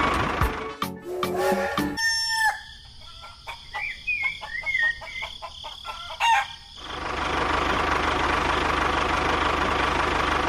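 Chickens clucking, with a rooster-like call, in a quieter stretch in the middle, set between stretches of a steady, noisy hum.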